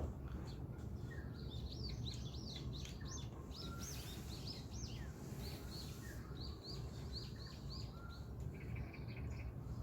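Small birds chirping in a quick run of short, high notes, with a brief buzzy trill near the end, over a steady low background rumble.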